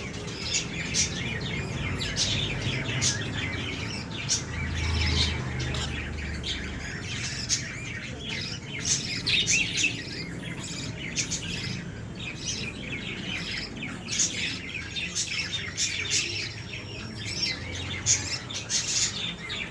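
A flock of small pet birds chirping and chattering, many short overlapping calls without pause.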